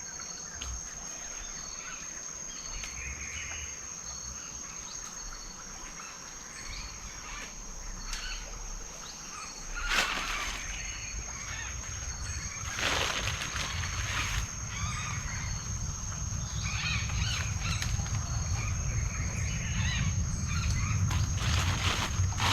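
Outdoor riverside ambience: insects buzzing in a steady high-pitched drone, with scattered bird calls. Two short knocks come about ten and thirteen seconds in, and a low rumble builds up in the second half.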